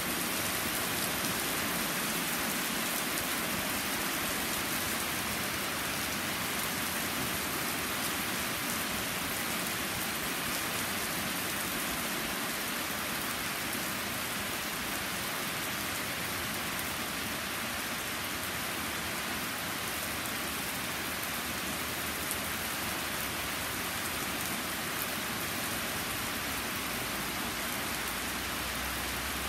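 Thunderstorm rain pouring steadily onto a flagstone patio and the surrounding trees: a dense, even hiss with no let-up.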